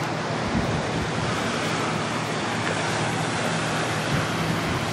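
Ocean surf and wind buffeting the microphone, a steady rushing noise with a faint low hum underneath.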